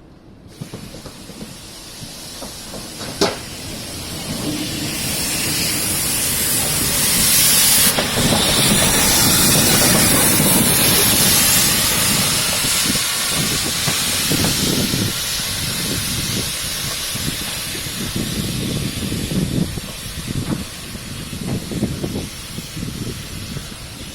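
Steam locomotive hissing steam. The hiss swells to its loudest about a third of the way in and then slowly eases, with uneven low puffs in the second half and a single sharp click early on.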